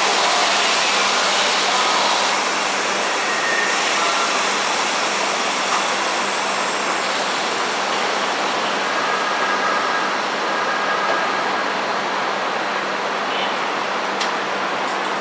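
Keisei 3400 series electric train running through the station, a steady rushing rumble that slowly eases in level, with a few faint brief tones over it.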